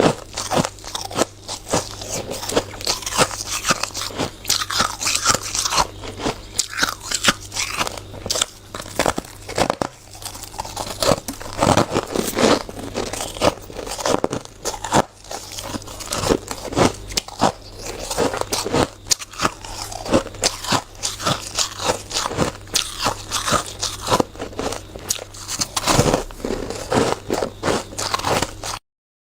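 Close-up crunching and chewing of hard, frosty shaved ice: dense, irregular crunches in quick succession, stopping abruptly near the end.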